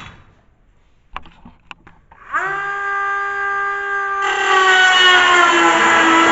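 A few handling clicks, then a grinder spins up to a steady high whine. About two seconds later it bites into the metal panel: a loud rough grinding noise joins the whine, and the pitch sags slowly under load.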